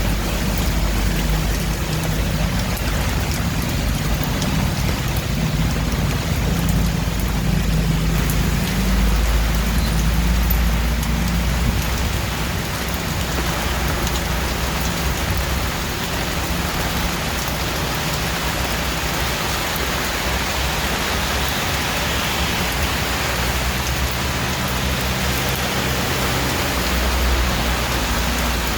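Steady rain falling, an even hiss, with a low rumble underneath that swells about a third of the way in and again near the end.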